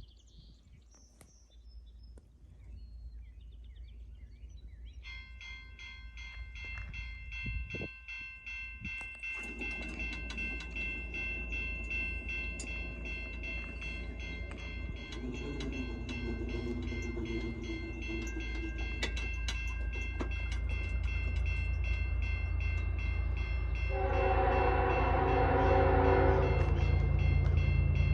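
Level-crossing bells start ringing about five seconds in, then an approaching train's rumble grows steadily louder. The lead locomotive's Nathan K5HL five-chime air horn sounds, a softer blast partway through and a loud, longer blast near the end.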